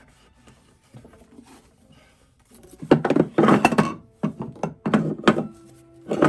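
Household cleaning handling noises: a run of thunks and knocks from about halfway through, as of objects being set down and moved, with one more thunk near the end.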